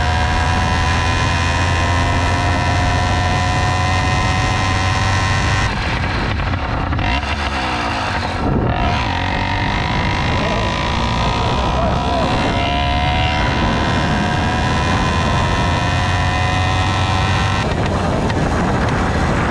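Pexmor 80cc two-stroke bicycle engine kit with an expansion-chamber exhaust running under way, its note slowly rising. The note drops off about six seconds in, then climbs again.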